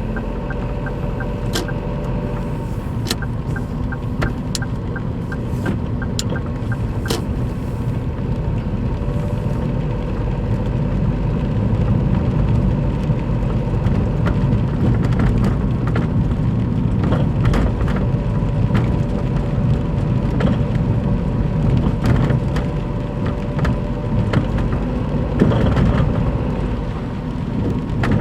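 Daihatsu Move Custom (L175S) engine running with a steady low rumble that grows somewhat louder partway through, its noise raised by a torn, worn-out engine mount bushing. A light, rapid, even ticking sounds over it for the first several seconds, with scattered clicks later.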